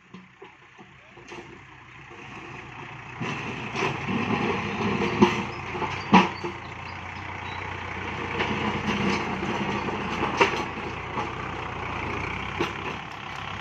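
Kubota tractor's diesel engine running under load, growing louder about three seconds in, with a few sharp knocks along the way.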